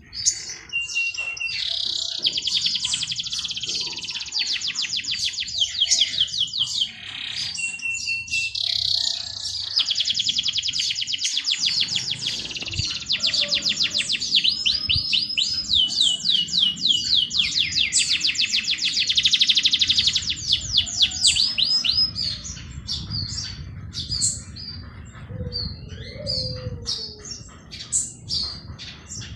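Songbirds singing long, rapid trills of many quickly repeated high notes, phrase after phrase several seconds long with short pauses, with a brief steady whistle twice in the first half.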